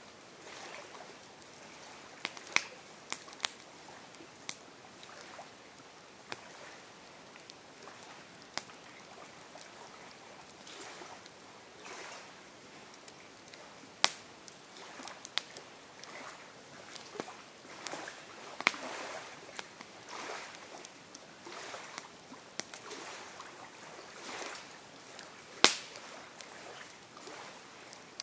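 Campfire crackling: burning wood gives off irregular sharp pops and snaps over a soft steady hiss, with the two loudest pops about fourteen seconds in and near the end.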